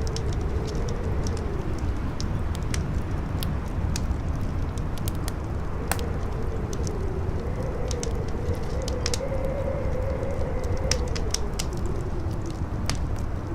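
Campfire crackling with frequent sharp pops, over strong wind: a low steady rumble and a howl whose pitch slowly rises and falls.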